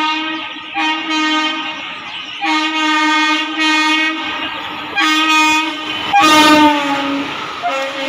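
Indian Railways electric locomotive horn sounding in a series of about six separate blasts, each lasting around a second, with short gaps between them.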